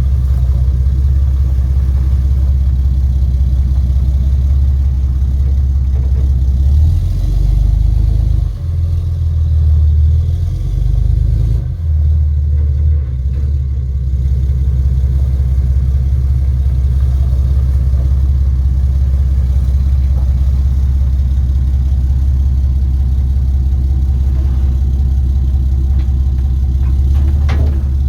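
A truck running, heard as a loud, steady low engine and road rumble, with a few surges in level between about 7 and 12 seconds in.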